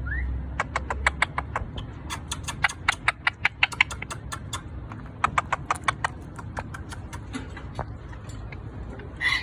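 Parrot making quick irregular runs of sharp clicks and taps, busiest in the middle, with a short chirp near the end.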